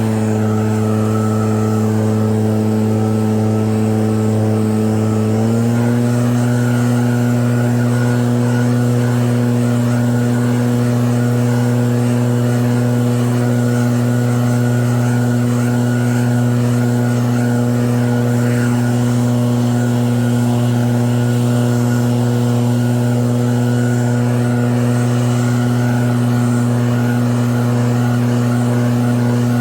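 Engine of an EB7660RED snow-clearing machine running steadily. Its pitch rises slightly about five seconds in, then holds.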